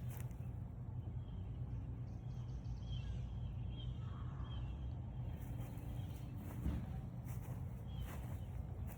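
Outdoor ambience: a steady low hum with faint, short bird chirps, a run of about four half a second apart in the middle and a couple more near the end.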